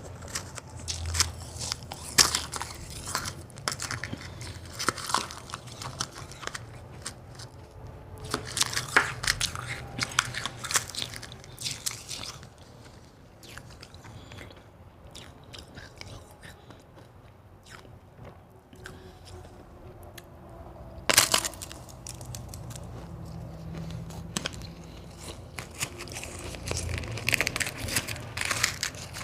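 Close-miked crunching and chewing of white ice, with sharp bites coming in quick runs. The middle stretch is quieter and softer. About two-thirds of the way through there is one loud crack, and dense crunching returns near the end.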